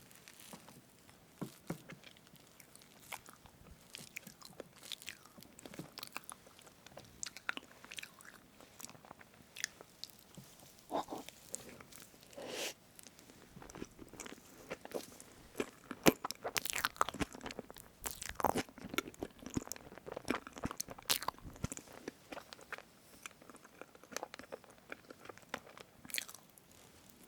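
Close-miked mouth sounds of eating strawberry whipped-cream cake: soft irregular chewing, smacking and small clicks, busier in the second half.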